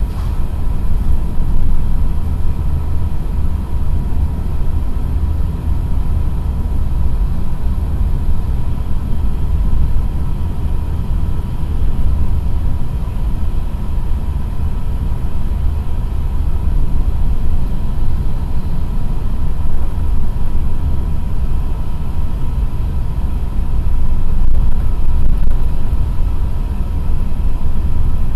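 JR East E6 series Shinkansen heard from inside the passenger car while cruising at about 300 km/h: a loud, steady low rumble of running noise, with a thin steady whine above it.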